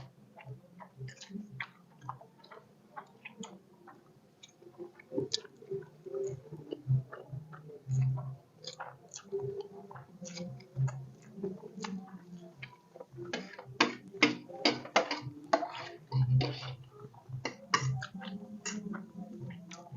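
People eating fast: chewing, with irregular sharp clicks of cutlery on plates that come thicker in the second half.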